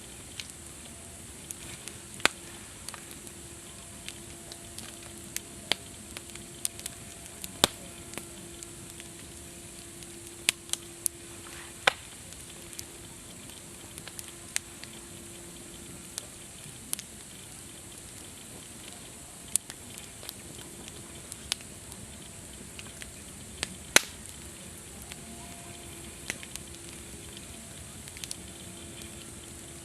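Campfire crackling: a steady soft hiss with sharp, irregular pops and snaps of burning wood, a handful of them much louder than the rest.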